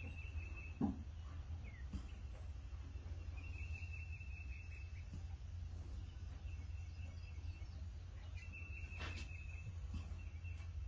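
Faint high bird trills, each about a second long, repeating every couple of seconds over a steady low rumble, with a sharp click near the end.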